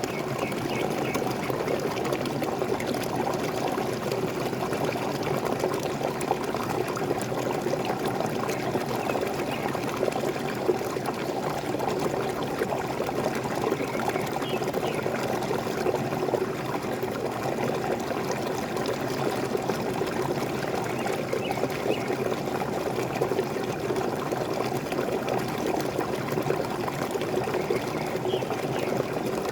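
Small waterfall: water pouring and splashing steadily and evenly.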